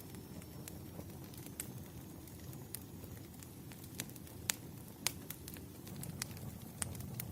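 Bonfire burning with a steady low rumble, broken by irregular sharp crackles and pops from the burning wood, the loudest about four and a half and five seconds in.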